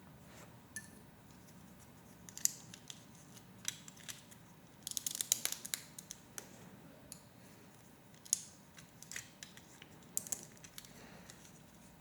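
Plastic Lego Technic pieces clicking against each other as they are handled and fitted together: scattered sharp clicks, with a quick flurry of them about five seconds in.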